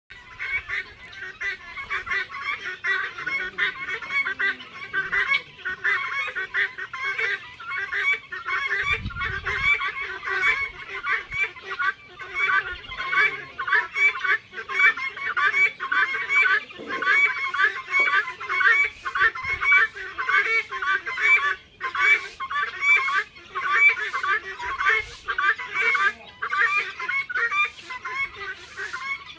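A flock of helmeted guineafowl (titir) calling continuously: harsh, honking calls repeated about two to three times a second, many birds overlapping.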